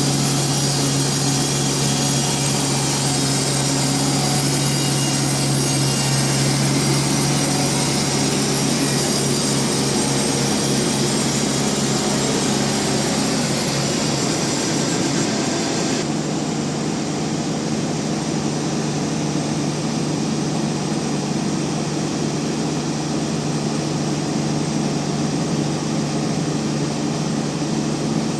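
Band sawmill blade cutting through a trembesi (rain tree) log: a steady machine hum under a dense hissing cut. A little over halfway through, the high hiss drops away suddenly and the mill runs on with its steady hum.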